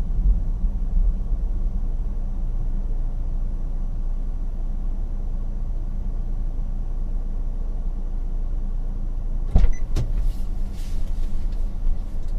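Car driving, heard from inside: a steady low rumble of engine and road noise, with two sharp knocks about ten seconds in.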